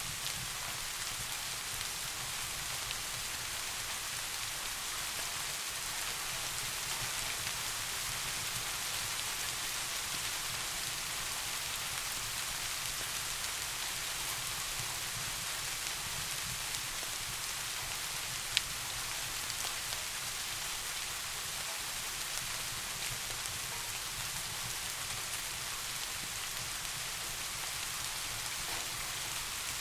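Steady rain falling, an even hiss with no letup, and a single sharp tick about two-thirds of the way through.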